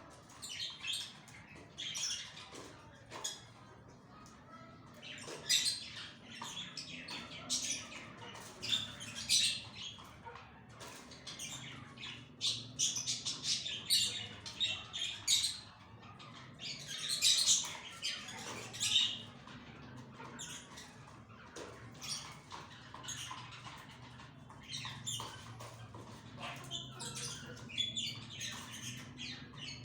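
Birds chirping and squawking, a steady stream of many short, sharp, high-pitched calls that overlap, busiest about halfway through.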